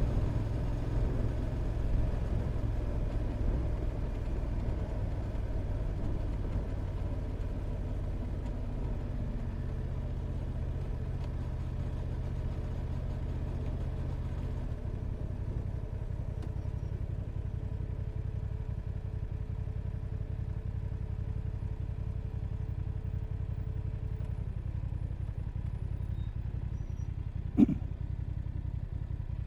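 Motorcycle engine running steadily at low revs, with its electric radiator fan blowing. About halfway through, part of the higher whooshing drops away. Near the end there is a single sharp click.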